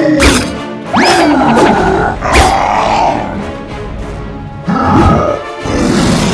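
Cartoon monster sound effects: repeated roars and growls that slide up and down in pitch, each opening with a sharp hit, over background music.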